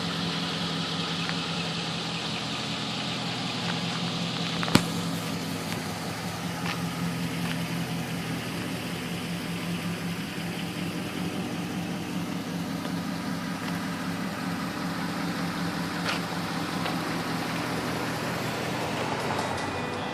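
2003 GMC Sierra 1500 pickup's engine idling steadily, with a single sharp click about five seconds in and a fainter one near the end.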